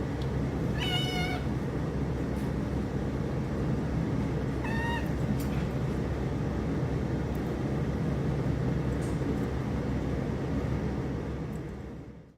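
Kitten meowing twice, a longer call about a second in and a shorter one about five seconds in, over a steady low hum that fades away near the end.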